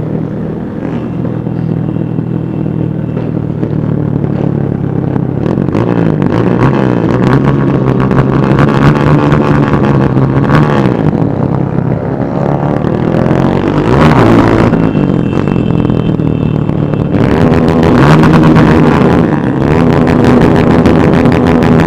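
Many motorcycle engines running together as a procession of bikes rides past, several engines at once with pitches rising and falling as they rev and pass. The sound grows louder over the first few seconds.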